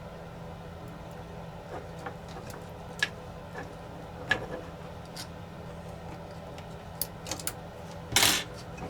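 Scattered small clicks and taps of tools and small plastic drone parts being handled on a workbench while wires are pulled through a drone arm, over a steady low hum. A short louder scraping rustle comes near the end.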